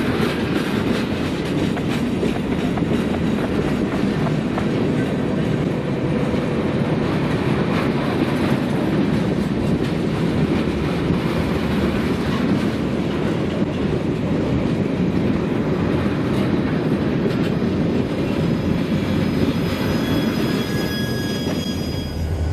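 Freight train of steel tank cars rolling past at close range: a steady rumble of wheels on rail with clickety-clack over the joints. A few faint high wheel squeals come in near the end.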